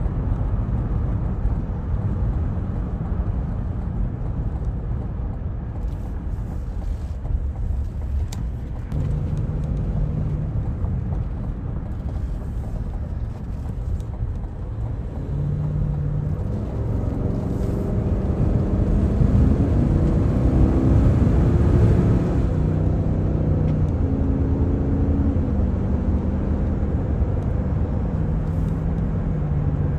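Cabin sound of a 2024 Cadillac Escalade on the move: a steady low road and tyre rumble with the 6.2-litre V8 running underneath. From about a third of the way in, a few steady tones come in that shift pitch in steps, and the sound grows louder past the middle.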